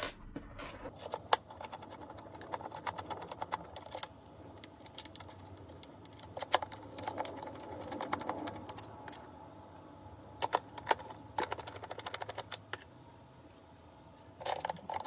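Screws being driven to fit wheels onto a pressure washer's plastic base: irregular clicking and light rattling of a screwdriver and screws, some clicks sharper than others.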